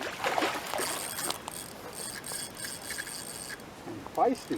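Fishing reel ratcheting and grinding as a hooked carp is played: a dense run of clicks in the first second and a half, then lighter ticking. The clicking is the reel giving or taking line while the fish fights.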